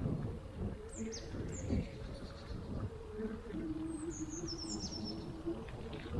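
Small woodland birds calling with short, high, falling chirps: two single ones about a second in and a quick descending run of chirps around four to five seconds in. Under them runs a steady low rumble, the bicycle's tyres rolling over the forest path.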